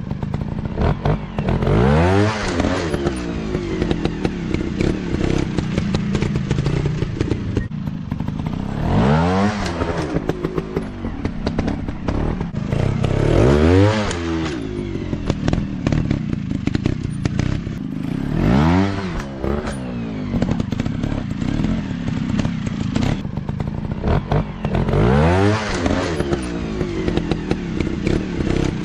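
Dirt bike engines running, revving up and dropping back about five times, with a steady engine note between the revs.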